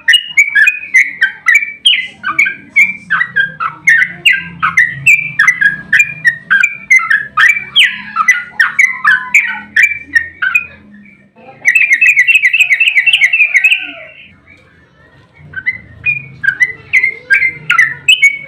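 Yellow-vented bulbul (trucukan) singing a long, rapid run of bubbly, chattering notes. The run breaks off about eleven seconds in, gives way to a fast, even trill of about two seconds, then after a short pause the song resumes near the end.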